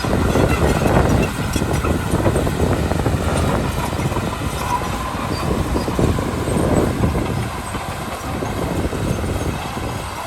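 Komatsu D31P bulldozer's diesel engine running under load, with its steel tracks clanking and rattling steadily as it moves.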